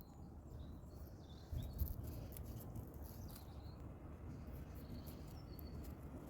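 Faint outdoor ambience: birds chirping now and then over a steady low rumble, with scattered small clicks.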